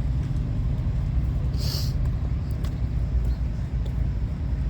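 Diesel truck engine idling, a steady low rumble. A brief hiss sounds about one and a half seconds in.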